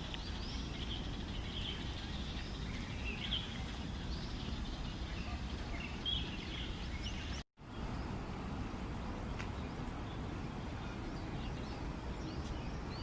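Small birds chirping sporadically in short, high calls over a steady low outdoor rumble, with a brief gap about halfway through.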